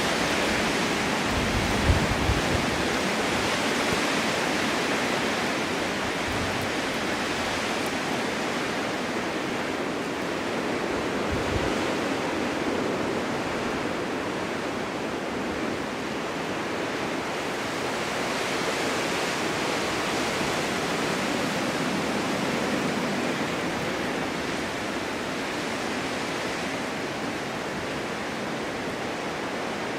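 Winter wind blowing steadily, a rushing hiss that slowly swells and eases. There are brief low thumps about two seconds in and again near the middle.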